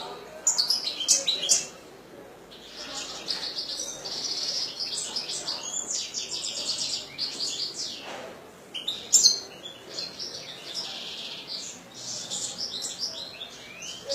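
European goldfinch singing a rapid, twittering song of quick trills and chirps, broken by two short pauses, with the loudest sharp notes near the start and about nine seconds in.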